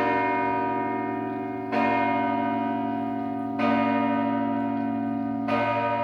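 Church bell tolling, struck about every two seconds with four strikes, each ringing on and slowly fading before the next.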